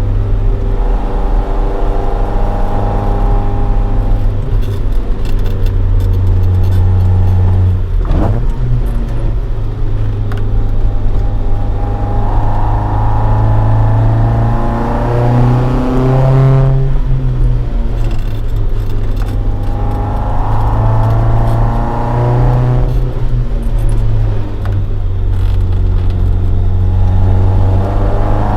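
Toyota AE86 Sprinter Trueno's swapped AE111 20-valve 4A-GE engine on four individual throttle bodies, running through a Fujitsubo Legalis R exhaust while the car drives. The revs climb and drop back several times as it accelerates and shifts.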